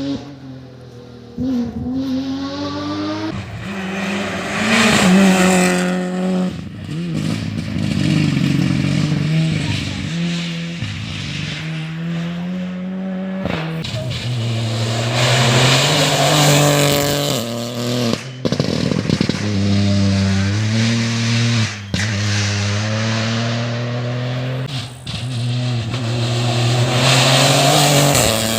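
Rally cars at full throttle, engines climbing in pitch through each gear and dropping at every shift, loudest in surges as the cars come through. A few sharp cracks ring out near the middle.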